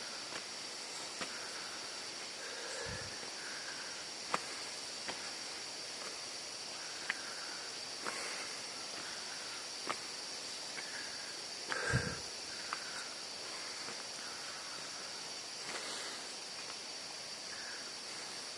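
Insects droning steadily in a high, even band, with scattered small clicks and two dull thumps, the louder one about twelve seconds in.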